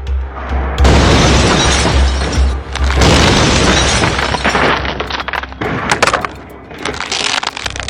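Crash-test car smash: loud crunching impacts with breaking glass, coming in about one second in and again about three seconds in, over background music with a pulsing bass beat.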